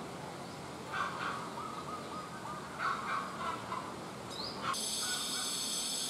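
Short bursts of low-pitched bird calls, some wavering, repeat in a tropical garden. About three-quarters of the way in the sound changes abruptly to a steady, high insect buzzing.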